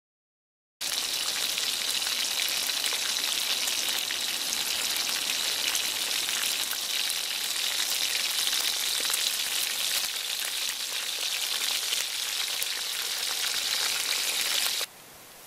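Whole freshwater crabs deep-frying in hot oil in a metal wok, sizzling steadily with a fine crackle. The sizzling starts suddenly about a second in and drops to a much quieter hiss just before the end.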